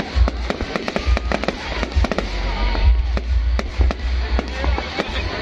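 Fireworks going off in rapid succession: many sharp bangs and cracks, close together, over a deep rumble of booms.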